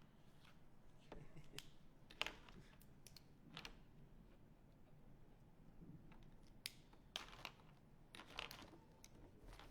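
Faint, scattered clicks, taps and crinkles of art supplies being handled at a table, with a sharper click about two seconds in and a cluster of clicks between seven and nine seconds in.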